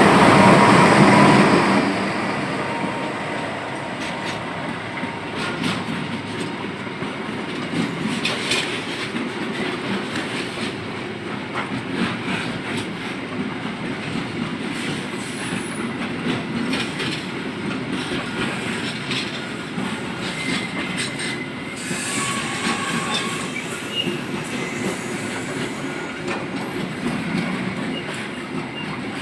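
A train running past on the track: a steady rumble of wheels on rails with clicks over the rail joints and faint wheel squeal here and there, loudest in the first two seconds.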